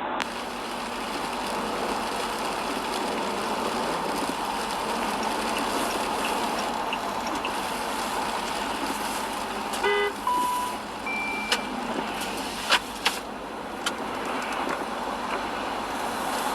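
Steady road traffic noise, with a short car horn toot about ten seconds in, followed by two brief beeps and a few sharp clicks.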